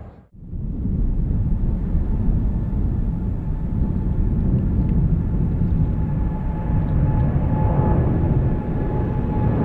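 Jet airliner departing: a distant steady rumble with a thin engine whine running through it, mixed with gusty wind on the microphone. The sound drops out briefly right at the start, then comes back.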